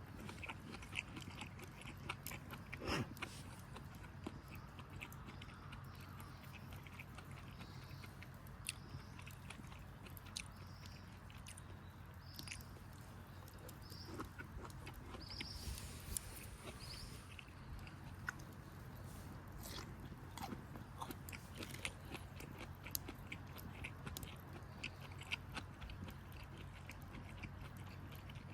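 Close chewing and crunching of cooked bamboo shoot: many small sharp crunches and clicks over a low steady hum.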